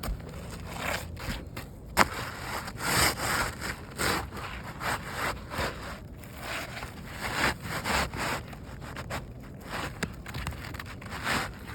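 New asphalt shingle being slid into place under the course above, its granule surface scraping and rubbing in irregular strokes, with one sharp knock about two seconds in.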